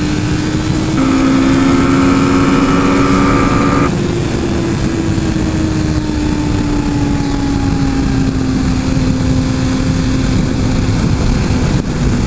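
Suzuki GSX-R 1000's inline-four engine running under way over a steady rush of noise. A louder, higher-pitched engine note joins from about a second in and cuts off near four seconds. After that the engine's pitch slides steadily lower as the bike slows.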